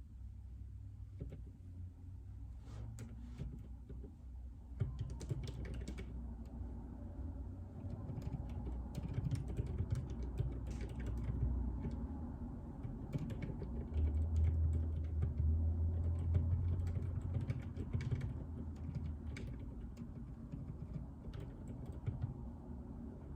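Typing on a JJK84 mechanical keyboard with Outemu Silent Peach linear switches: muted key clicks in irregular runs, over a steady low rumble that swells about halfway through.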